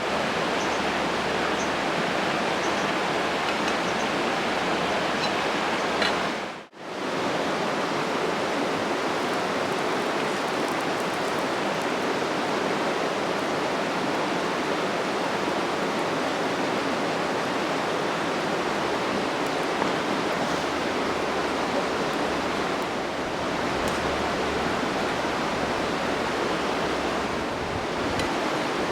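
Steady, dense sizzling hiss of cooking in a pan over a campfire, with a few faint crackles; the sound cuts out briefly about seven seconds in.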